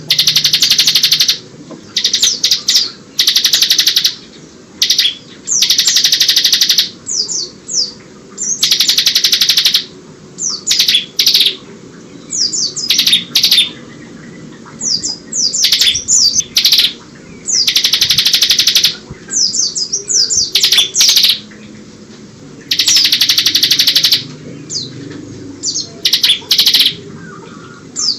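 Bar-winged prinia (ciblek) singing the 'ngebren' song: about half a dozen long, loud, rapid rattling trills of about a second each, alternating with quick runs of short sharp chirps, the white-eye (pleci) phrases it has been trained to mimic.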